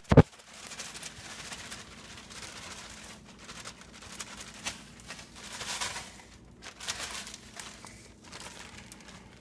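A couple of sharp knocks right at the start, then faint, intermittent crinkling and rustling of plastic packaging being handled.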